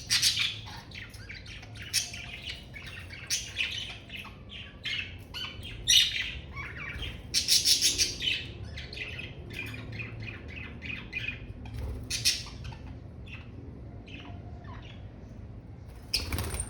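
Budgerigars chirping and chattering, with frequent short calls and sharper squawks in an irregular stream, loudest around the middle. A faint low hum lies under the calls.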